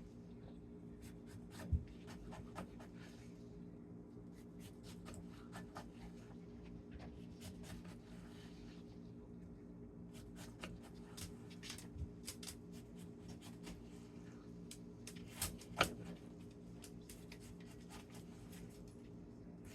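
Faint, irregular light clicks and scratching, with a sharper click about two seconds in and another near the end, over a steady low hum.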